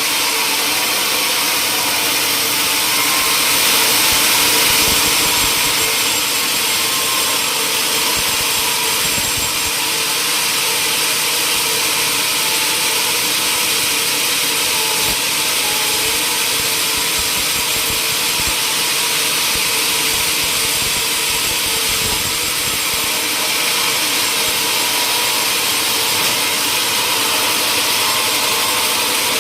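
Sawmill machinery running steadily, a saw working timber, with a continuous loud hiss and faint hum that change little.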